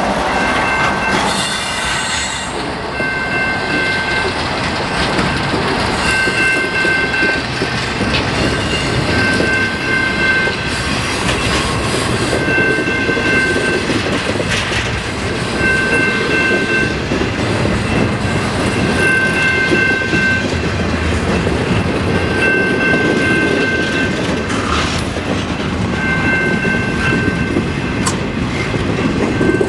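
A double-stack intermodal freight train rolls past close by at low speed, its wheels rumbling and clacking over the rail joints, with the second locomotive, a CP AC4400CW, going by at the start. A high-pitched squeal comes and goes about every three seconds.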